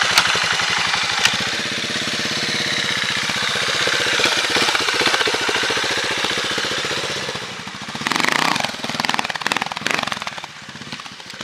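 Four-stroke trial motorcycle engine running at low revs close by, a fast, even pulse. It turns rougher and quieter over the last few seconds.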